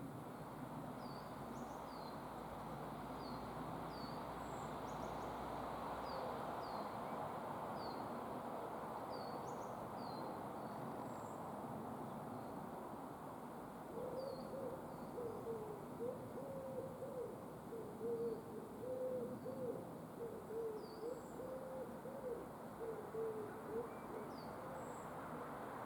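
Woodland birdsong: a small bird repeats short, high, falling chirps throughout. About halfway through, a larger bird joins with low, wavering hooting calls in short repeated phrases for about ten seconds.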